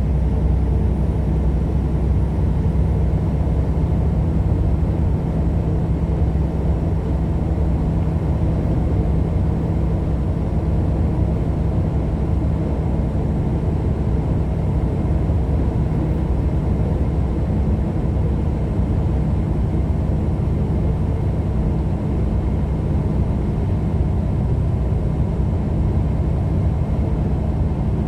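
Steady engine drone and road noise heard from inside a vehicle cruising at highway speed.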